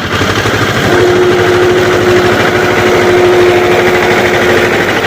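HMT tractor engine running loud and steady, with a steady whine joining about a second in.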